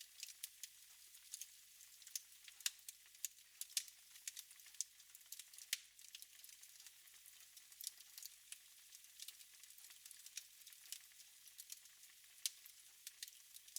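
Wood fire burning in a fireplace, crackling softly with irregular small pops and snaps over a faint hiss.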